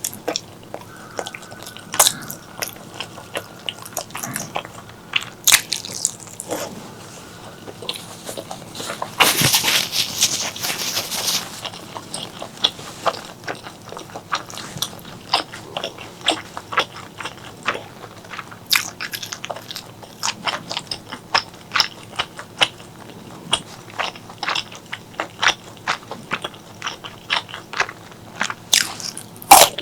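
Close-miked chewing and biting of spicy pork leg curry with rice: wet mouth clicks and smacks come in quick succession. A louder, denser noisy stretch of about two seconds comes roughly nine seconds in.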